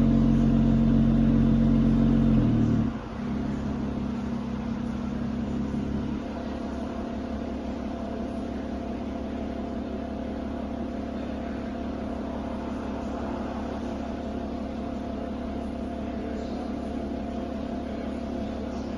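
Lotus Emira's supercharged V6 engine idling steadily. Its note steps down twice in the first six seconds, then holds even.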